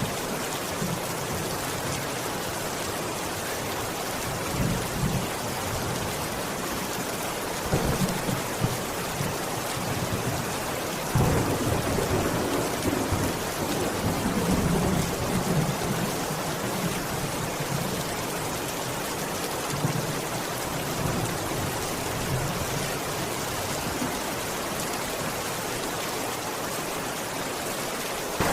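Steady rain falling, with low rolls of thunder several times; the longest roll starts about eleven seconds in and rumbles on for several seconds.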